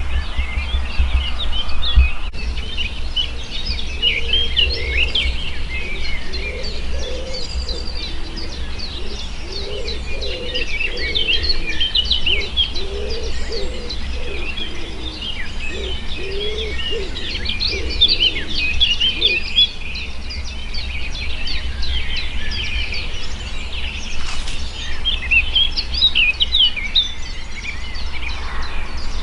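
Dawn chorus of many songbirds, with overlapping trills and chirps throughout and a lower repeated call through the first two-thirds, over a steady low rumble.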